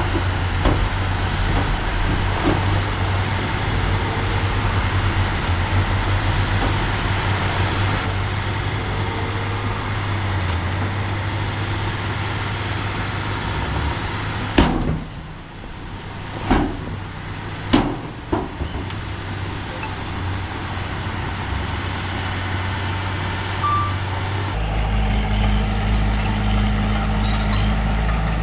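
Diesel engine of heavy earthmoving equipment running steadily, with a few sharp clanks about halfway through and a deeper, heavier engine note setting in abruptly near the end.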